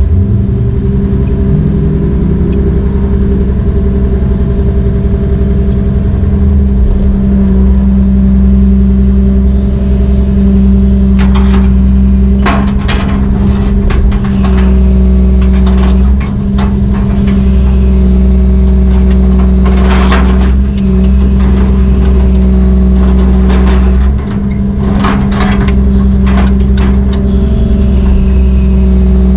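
Heavy diesel engine running steadily under load, with a few bursts of metallic knocks and rattles about halfway through and near the end.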